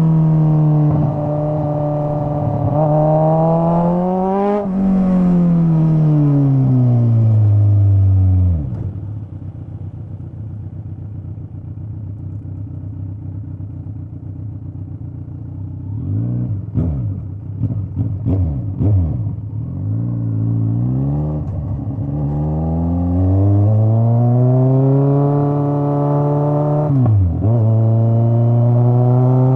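Straight-piped Kawasaki Z900 inline-four exhaust under way: revs climb in the first few seconds, then fall away as the bike slows to a low idle. A few quick throttle blips follow, then it pulls away again with rising revs and a quick gear change near the end.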